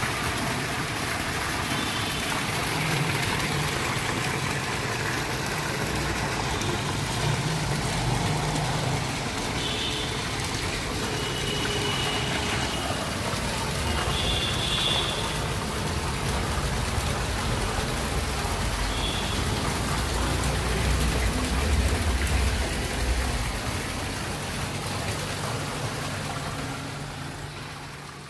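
Water running and splashing steadily down a natural-stone bleeding-wall fountain, fading out near the end.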